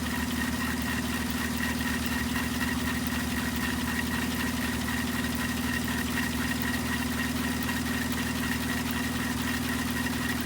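A rebuilt engine idling steadily, with a rapid, even beat and a strong low hum that holds constant throughout.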